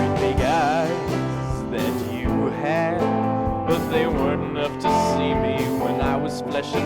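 Instrumental passage of a small band's song, with trombone, saxophone, piano, bass and drums. A melody line wavers with a wide vibrato over a steady accompaniment.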